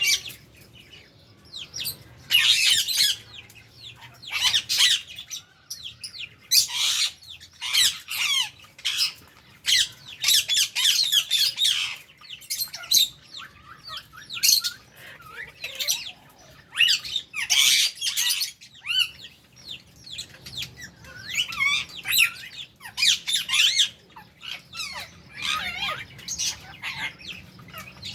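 Flock of lovebirds making shrill, chattering squawks in quick, irregular bursts with short pauses between them.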